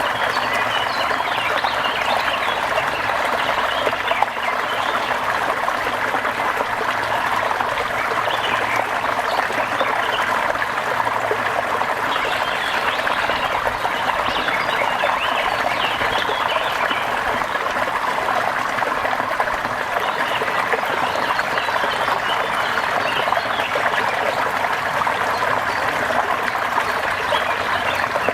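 Steady rain, a dense, even patter of water that holds unchanged throughout.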